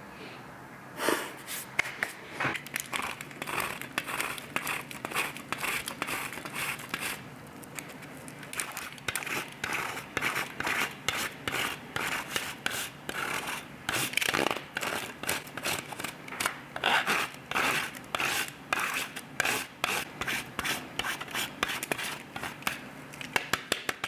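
Repeated short scraping or rubbing strokes, about two or three a second, starting about a second in.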